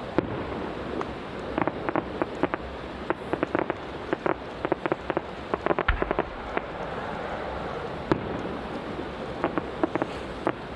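Aerial fireworks going off: many sharp pops and crackles in irregular clusters over a steady rumble, with one deep boom about six seconds in.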